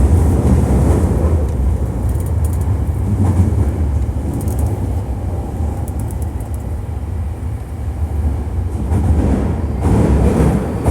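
Hankyu 1300 series electric train heard from inside the car while running between stations in a subway tunnel: a steady low rumble of wheels on rail with a rushing noise and a few faint clicks. This unit is known as an odd-noise car.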